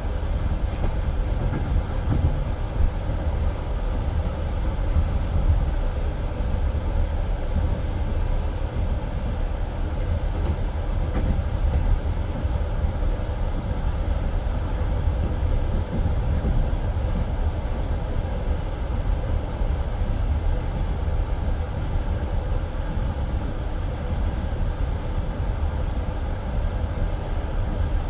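A passenger train carriage running between stations, heard from inside the car: a steady, dense rumble of the wheels on the rails.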